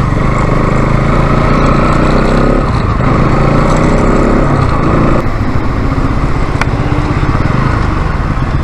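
Motorcycle engine running while riding, its note changing about two and a half seconds in and again about five seconds in.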